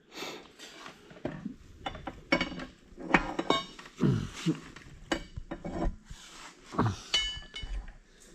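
Metal parts of a corn head's rotary knife unit clinking and knocking, a string of separate strikes, several ringing briefly.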